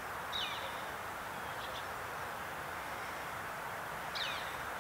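Outdoor ambience: a steady background hiss, and a small bird chirping three times with short, falling notes.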